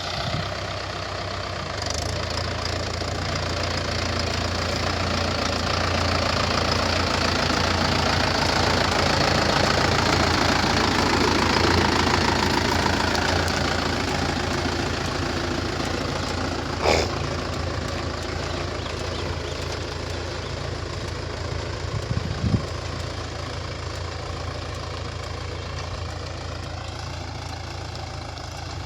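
Tractor diesel engine running steadily, growing louder toward the middle and then fading. There is a sharp clank about 17 seconds in and a couple of smaller knocks a few seconds later.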